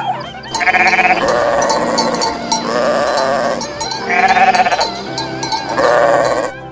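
Sheep bleating four times, each a quavering call about a second long, over background music.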